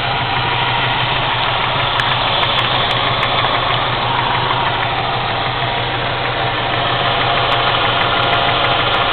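Ford Mustang 2.3-litre four-cylinder engine running at a low, choppy idle. The owner is unsure whether the idle is set too low or a sensor is at fault. A few faint ticks are heard about two to three seconds in and again near the end.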